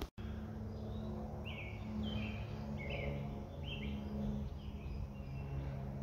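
Woodland birds chirping, a series of short downward-slurred calls repeated every half second or so, over a steady low hum.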